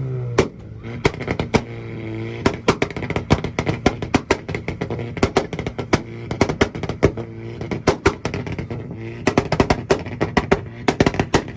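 Volkswagen hatchback's engine held against a two-step rev limiter, its revs swinging up and down while the exhaust pops and bangs rapidly and irregularly, several times a second.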